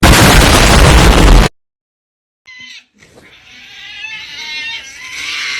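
A loud blast of noise, like a meme explosion effect, lasting about a second and a half and cutting off abruptly. After a short silence comes a drawn-out cat yowl that swells in the second half.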